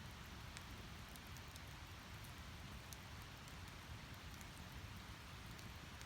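Wood fire burning in a Snow Peak Takibidai S fire pit: a low, steady hiss with scattered small crackles and pops from the burning firewood.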